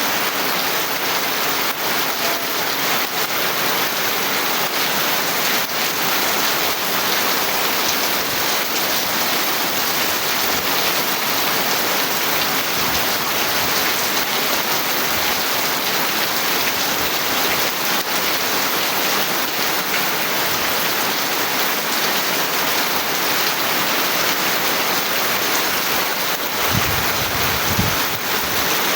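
Steady heavy rain falling and pattering on surfaces, even and unbroken, with a brief low rumble near the end.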